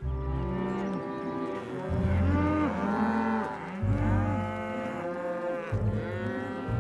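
Cartoon cows mooing: about four long, low moos one after another.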